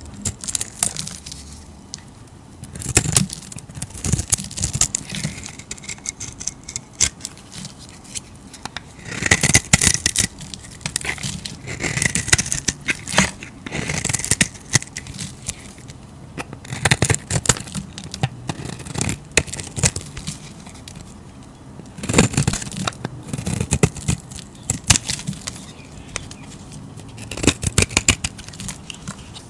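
A blade cutting and carving through soap, giving crisp scraping and crackling strokes in bursts separated by short quiet gaps.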